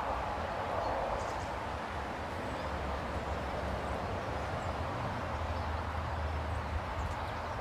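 Outdoor ambience at a garden bird table: a steady background hiss with a low rumble building through the middle, and a few faint, short, high bird chirps, about a second in and near the end.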